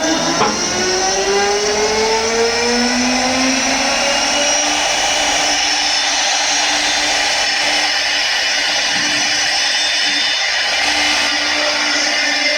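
CNC wood lathe grooving a spinning workpiece: its motor whine rises in pitch over the first few seconds, then holds steady over the loud, continuous noise of the cutter in the wood.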